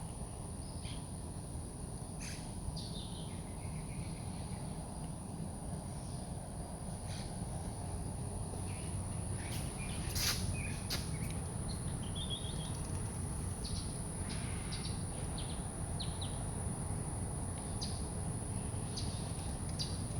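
Birds calling with short, scattered chirps and calls over a steady high-pitched whine and a low outdoor background rumble.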